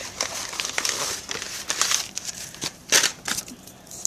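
Paper being handled and crumpled, an irregular crinkling with scattered sharp crackles, the loudest crack about three seconds in.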